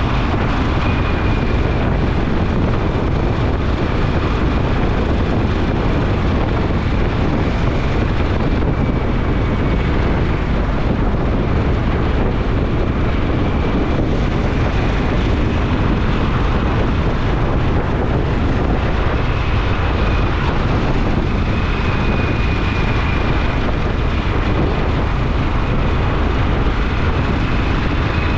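Motorcycle engine running at a steady speed, mixed with wind rushing over the camera microphone.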